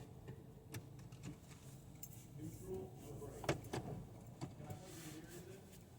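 Low steady hum of a car heard from inside its cabin, in an automatic car wash before the water starts, with a few faint clicks and knocks.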